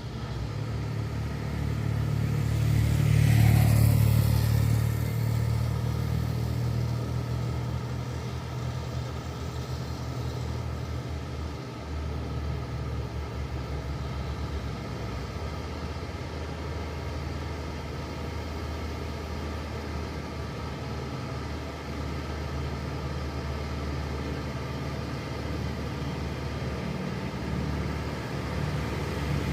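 Heavy truck's diesel engine running with a steady low rumble under load on a steep uphill climb. It swells louder with a brief rise and fall in pitch about three to four seconds in.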